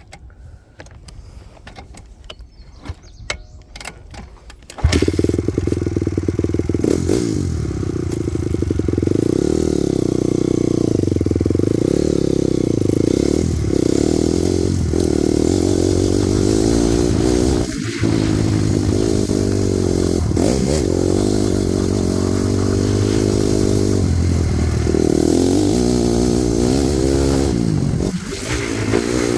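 A few faint clicks and knocks, then about five seconds in a Honda CRF250R's single-cylinder four-stroke engine starts and keeps running, its pitch rising and falling as the throttle is opened and closed, with a brief dip a little past halfway.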